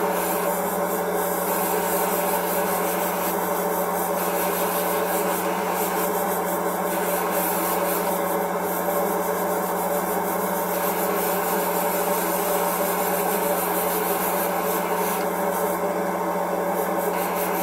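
Continuous abrasive scraping and sanding on the plastic surface of a scale model kit, working down cured black super glue filler in the panel lines, over a steady hum.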